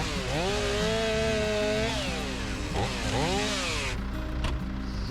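Chainsaw cutting, its pitch dropping sharply and climbing back several times as it works through the wood, then cutting off about four seconds in. Background music with a bass line runs underneath.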